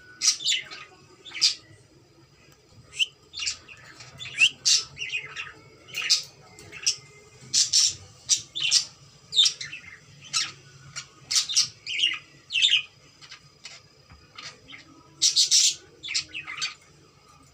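Cockatiel calling: short, sharp, high calls repeated at irregular intervals, about one or two a second, some in quick runs.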